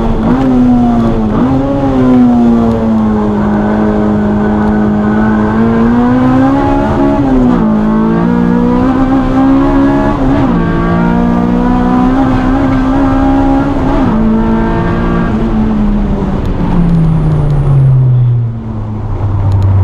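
Car engine working hard on a track lap, its note holding high with several sharp dips and swoops. Near the end the pitch falls steadily and settles into a low, steady note as the car slows.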